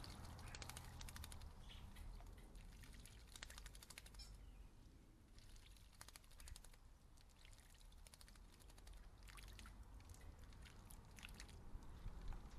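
Faint bursts of quick small clicks and splashes from birds bathing and pecking in a garden bird bath, coming in clusters every second or so over a low rumble.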